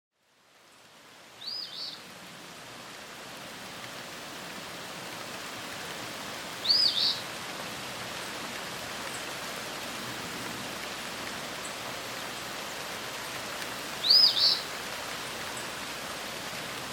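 Steady hiss of rain fading in over the first couple of seconds. A bird calls three times over it, each a quick pair of arched high notes, about five to seven seconds apart; the calls are the loudest sounds.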